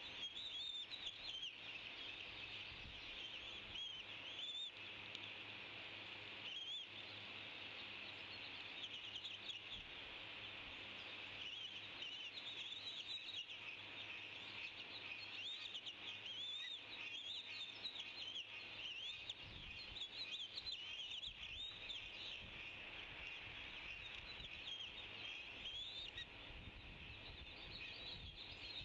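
A flock of small birds chirping and chattering continuously, many short calls overlapping at once.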